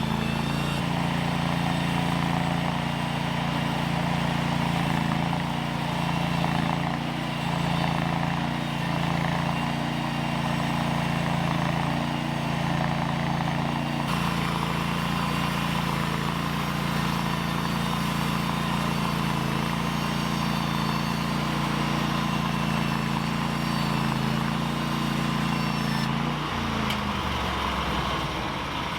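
An engine running steadily at an even speed, then slowing and falling in pitch near the end, as if being shut down.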